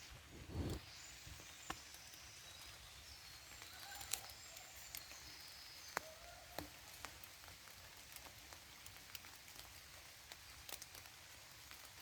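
Light rain in a forest: a soft, even hiss with scattered sharp drips. A low thump about half a second in is the loudest event, and a few faint high chirps come and go.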